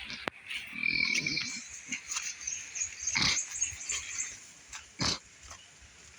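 An animal calling, loudest in the first four seconds or so, with two sharp clicks later on.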